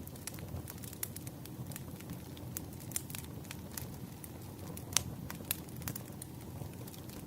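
Wood fire crackling: a steady low rumble of burning logs with frequent irregular sharp pops, the loudest just before five seconds in.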